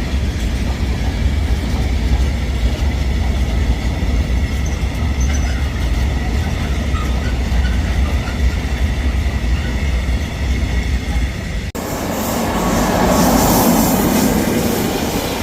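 Train running on the rails: a steady low rumble, then after a sudden cut about twelve seconds in, a louder rushing sound that swells and eases as a train goes by.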